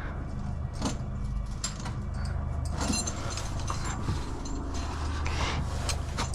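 Climbing gear clinking and scraping against sandstone rock, with clothing and rope rubbing, in irregular short clicks over a steady low rumble.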